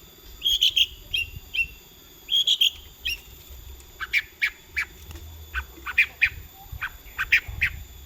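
Long-tailed shrike (cendet) singing: short chattering groups of high notes, then from about four seconds a fast run of sharp, harsh notes repeated several times a second.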